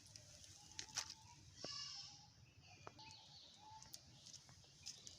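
Faint bird calls in quiet outdoor ambience, broken by a few sharp clicks.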